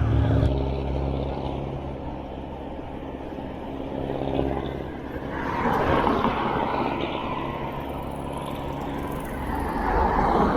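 Road traffic heard from a moving bicycle, with two motor vehicles swelling up and passing close by, one about halfway through and one near the end.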